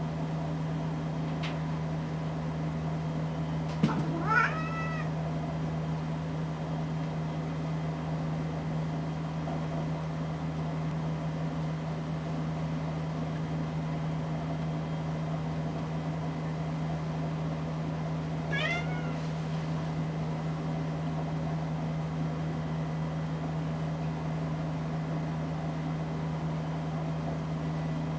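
Casablanca Delta ceiling fan motor humming steadily, while a cat meows twice, once about four seconds in and again about fifteen seconds later.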